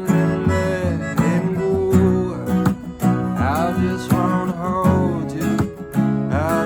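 Live band music led by strummed acoustic guitar, with a melody line that bends in pitch over the chords.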